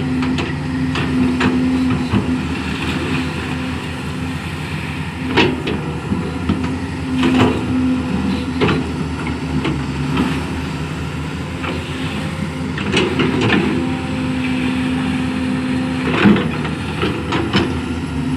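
Excavator engine running steadily under load while it digs and levels soil, with sharp knocks and clanks from the working machine every few seconds.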